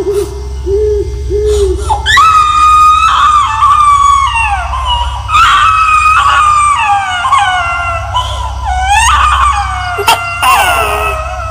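Eerie horror sound effect of a ghostly baby crying and screaming: a string of long, high-pitched wails that hold and then slide down in pitch, one after another, over a steady low drone.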